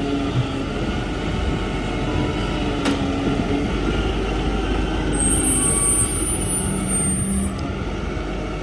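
Garbage truck running, a steady heavy-vehicle engine noise, with a thin high-pitched whine from about five seconds in to about seven and a half.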